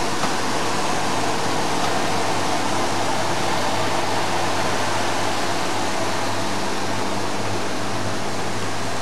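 Shrink-sleeve packaging machine running: a steady blowing hiss with a constant low hum and a couple of faint ticks.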